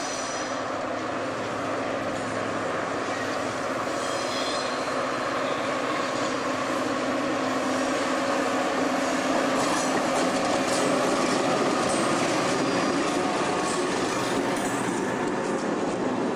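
Caltrain EMD F40PH diesel locomotive running as it approaches and gets louder, with brief high wheel squeals near the start and about four seconds in. Its stainless-steel bilevel gallery cars then roll past with wheels clicking over the rail joints.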